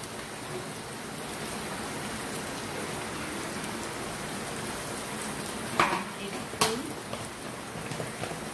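Chicken pieces and onion sizzling steadily in hot oil in a non-stick wok, with two sharp knocks about six seconds in as a wooden spoon stirs the pan.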